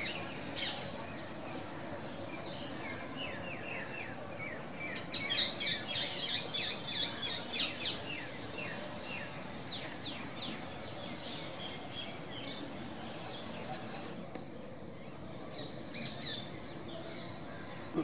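Birds chirping: quick runs of short, falling chirps, busiest a few seconds in and again near the end, over a steady outdoor hiss.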